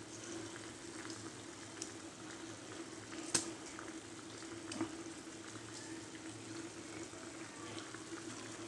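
Pot of chicken soup bubbling at the boil, faint and steady under a low steady hum, with two light clicks about three and a half and five seconds in.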